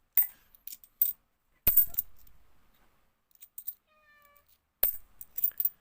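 50p coins clicking and clinking as they are sorted by hand, one sharper clack about two seconds in. A cat meows faintly and briefly about four seconds in.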